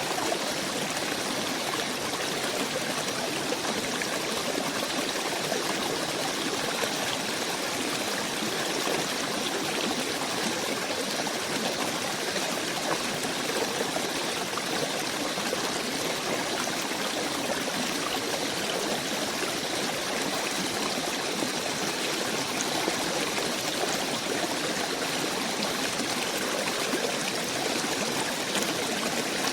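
Steady rushing of a flowing stream: an even hiss of running water that stays unchanged throughout, with no distinct calls or knocks standing out.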